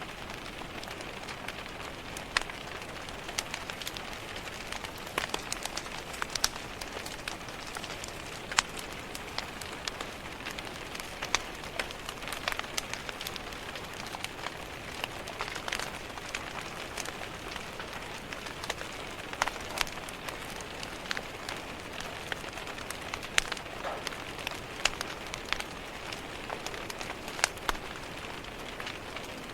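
Steady rain hiss with an open fire crackling: sharp irregular pops and snaps scattered over the steady rush.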